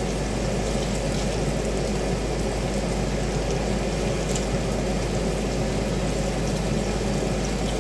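Bacon sizzling in a frying pan: a steady hiss with a few faint pops.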